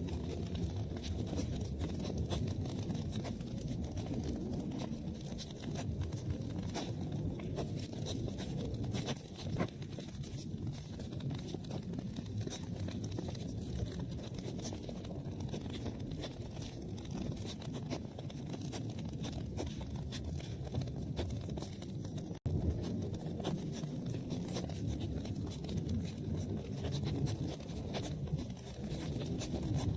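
Wood fire burning in a fireplace: a steady low rumble of flames with frequent small crackles and pops. The sound drops out for a split second about two-thirds of the way through.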